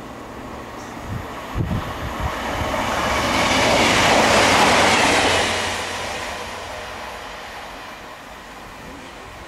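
A train passing on the line, its noise building to loudest about four to five seconds in and then fading away. A few low thuds come about a second and a half in.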